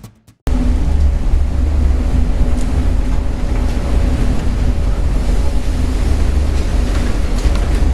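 Storm wind buffeting the microphone over heavy seas aboard a ship, a loud, steady rumble that cuts in abruptly about half a second in.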